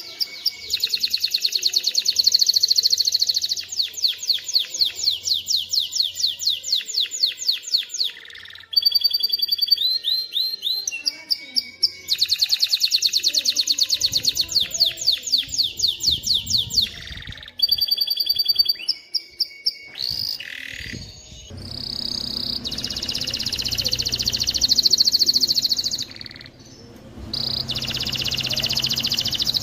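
Male domestic canary singing: fast rolls of rapidly repeated high notes, switching from one trill to the next with brief pauses, and a fuller, buzzier passage near the end.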